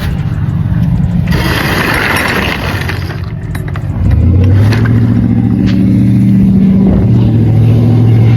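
A vehicle engine running loud, with a burst of hissing from about a second and a half in; from about four seconds in the engine gets louder and settles into a steady low drone.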